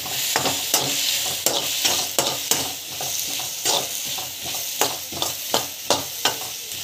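Chopped onions, tomatoes and coriander sizzling in hot oil in a kadai while a spatula stirs them, with frequent sharp scrapes and taps of the spatula against the pan over a steady frying hiss.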